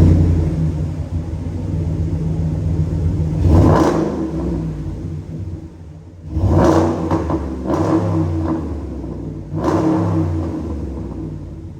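2019 Ram 1500 pickup engine through a Gibson aftermarket exhaust, running loud just after starting, then revved in three throttle blips with a smaller one between the second and third, settling back toward idle near the end.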